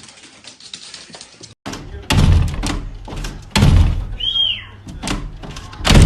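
A short faint stretch, then a series of heavy thuds and bangs. The three loudest come about a second and a half apart, with lighter knocks between them and a brief high squeak near the middle.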